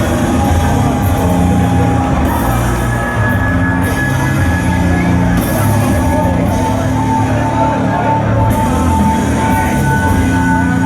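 Live rock music played loud by a band, with long held high notes over heavy, dense low sound.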